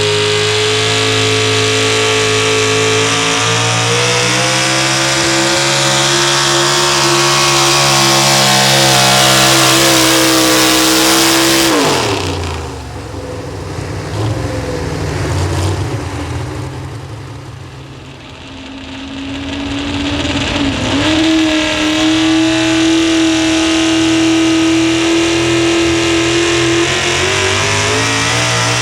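Pro stock four-wheel-drive diesel pulling truck engine running at full throttle with a steady high note. About twelve seconds in it drops off sharply and the pitch falls as the power comes off. A few seconds later an engine climbs back up to full power and holds there.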